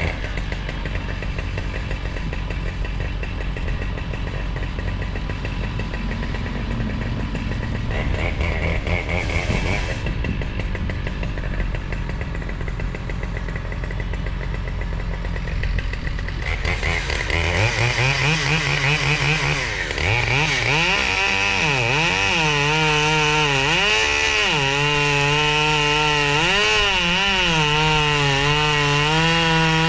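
A machine running steadily, then about halfway through a chainsaw's pitch rises and swings up and down again and again as it cuts into wood under load.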